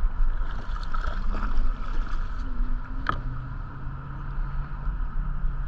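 Wind buffeting the microphone and water lapping against the hull of a small fishing boat, with a single sharp click about three seconds in.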